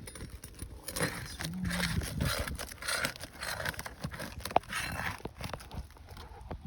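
Steel flat bar prying and scraping under old asphalt shingles, with irregular crackling and a sharp snap about four and a half seconds in as brittle, delaminating tabs break loose.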